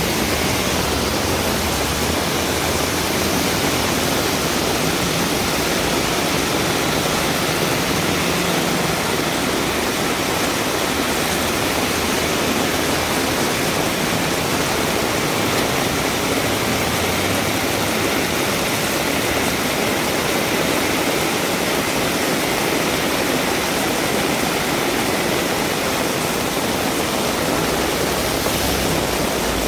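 Heavy rain pouring steadily, an even, dense hiss with no letup.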